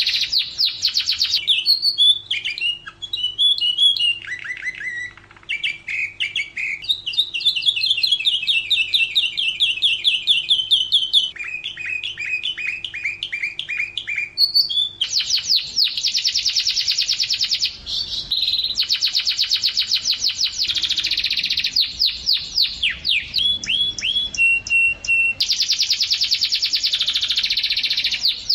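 Domestic canary singing a long, continuous song of rapid trills and fast-repeated notes. The pattern shifts every second or two between high rolling trills, lower chopped notes and downward-sweeping runs, with a short held whistle-like note near the end.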